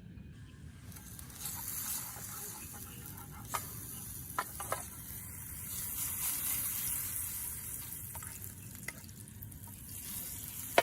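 Food sizzling in a hot pan. The hiss sets in suddenly about a second in and swells toward the middle, with a few sharp utensil clicks.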